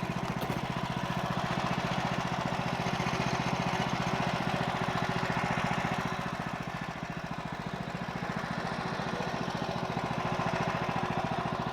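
14 HP Kohler engine of an HM130 bandsaw sawmill running steadily. It drops a little in level about halfway through, then picks up again.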